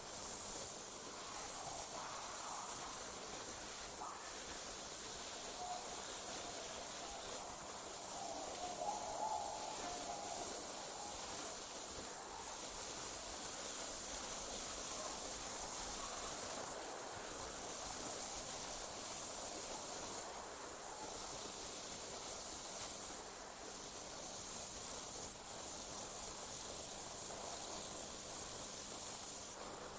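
Night insects, crickets, trilling in a continuous high-pitched chorus that drops out briefly every few seconds.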